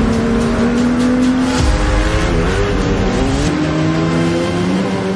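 A vehicle engine running hard at high revs, its pitch holding, dipping about two seconds in and then climbing again as it accelerates.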